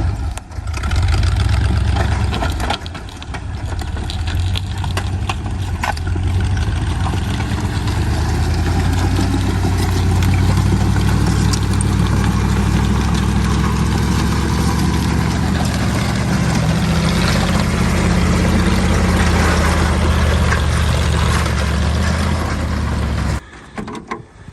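Tucker Sno-Cat's engine running steadily as the machine drives, with occasional knocks and rattles. The sound cuts off abruptly near the end.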